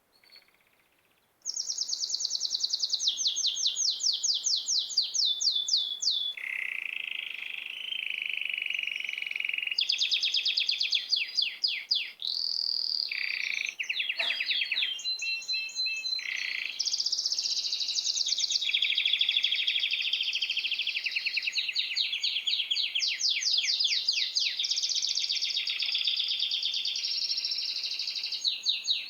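Small songbirds chirping, several at once in fast repeated trills of high down-sweeping notes, starting abruptly about a second and a half in and carrying on unbroken.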